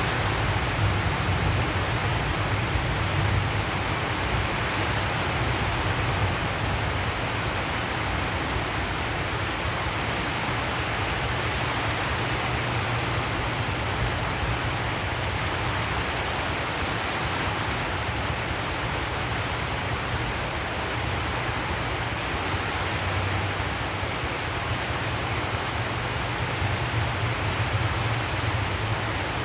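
Steady rain on a zinc sheet roof: an even, unbroken hiss with a low rumble underneath.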